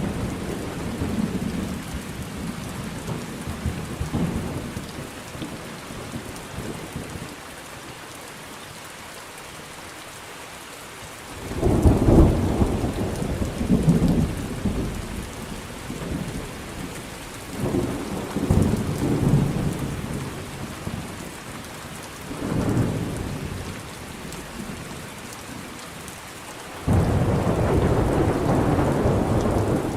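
Thunderstorm: steady rain with rolling thunder. Rumbles swell about halfway through and again twice after, and near the end a loud peal of thunder starts suddenly and keeps rumbling.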